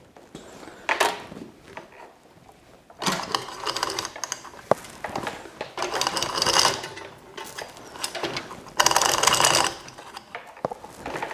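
Small electric hoist running in short bursts, its motor and gearing whirring about four times, a second or so each.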